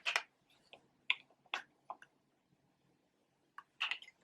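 A few scattered small plastic clicks and handling noises from AAA batteries being fitted into a handheld spirit box and its battery cover being worked.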